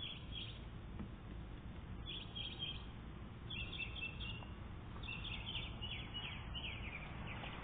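High-pitched chirping in about five short bursts, each a quick run of chirps, spaced a second or so apart, over a low steady background hum.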